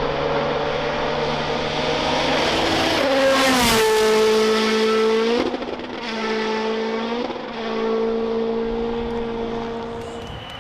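A World Rally Car's 1.6-litre turbocharged four-cylinder engine at full throttle. It approaches with rising pitch, passes loudest about three and a half seconds in with a falling pitch, then pulls away, its note breaking twice on gear changes.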